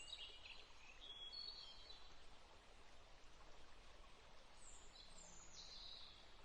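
Faint birdsong: short high chirps and trills, a few near the start and a cluster about five seconds in, over a quiet steady hiss.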